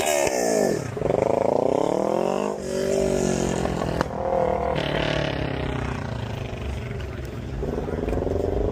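A car engine revving repeatedly, its pitch climbing and falling with each blip of the throttle.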